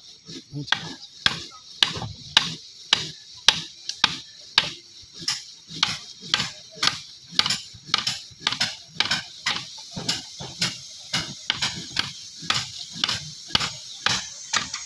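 A hand tool striking wood in a steady rhythm, about two sharp blows a second, as in hammering or chopping at timber for a wooden boat.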